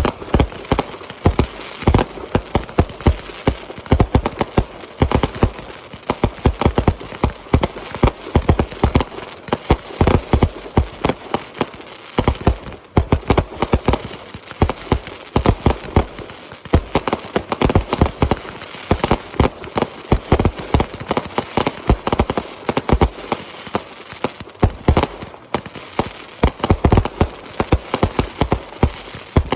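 Fireworks going off in a dense barrage: many sharp, irregular pops and bangs several times a second, overlapping into a continuous crackle.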